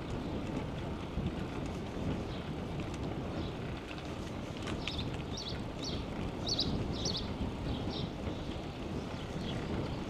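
Wind buffeting the microphone of a camera on a moving bicycle, a steady low rumble, with a run of short high chirps from about halfway to near the end.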